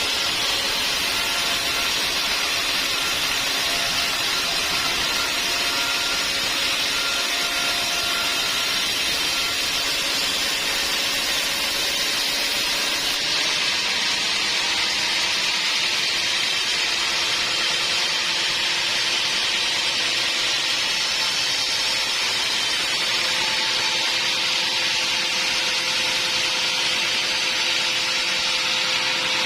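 Sawmill band saw running steadily, a loud even hiss with a faint machine whine under it.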